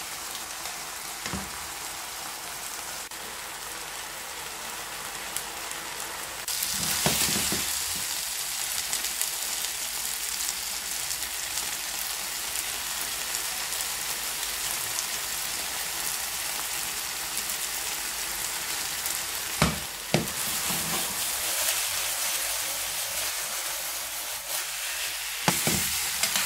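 Chicken livers and sliced red onions sizzling as they fry in a nonstick frying pan, the sizzle growing louder about six seconds in. A few sharp clicks of a utensil against the pan.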